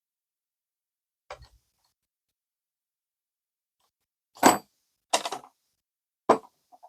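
Four short clinks and knocks of small metal carburetor parts and tools being handled while a lawnmower carburetor is taken apart. The loudest, about four and a half seconds in, has a brief metallic ring.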